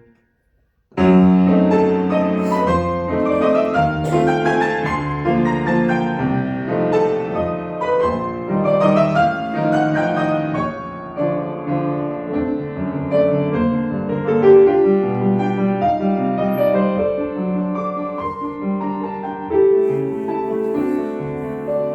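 Solo piano playing classical music, full chords and running figures. The sound drops out completely for about the first second, then the playing resumes and continues.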